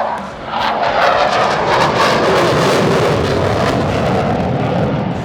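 Jet noise of an F/A-18E/F Super Hornet's twin turbofan engines as it makes a pass, swelling about a second in and then holding loud and steady with a ragged crackle.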